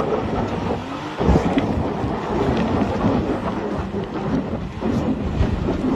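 Lifted Ford Mustang's engine running hard under load as it claws up a rocky slope, its tyres spinning and spraying gravel and rocks. A heavy rumbling surge comes about a second in, and the din stays thick throughout.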